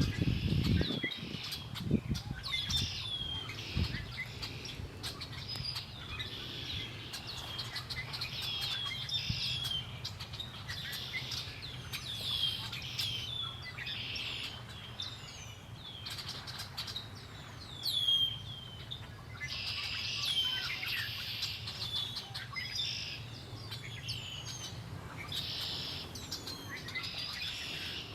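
Several small songbirds chirping and singing, mostly short falling chirps with bursts of scratchy chatter, over a steady low hum. A few low rumbles come in the first seconds.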